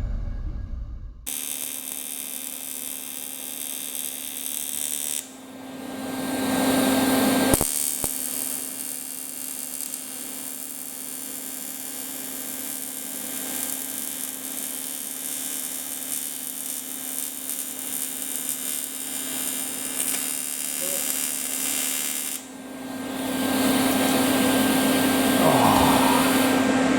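A machine running with a steady hum and hiss, growing louder twice.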